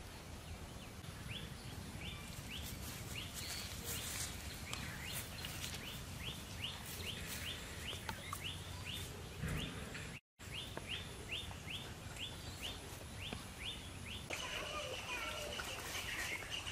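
Outdoor rural ambience: a bird repeats a short rising chirp about two to three times a second over a steady background hiss. The sound drops out briefly about ten seconds in, and near the end denser chirping and chatter take over.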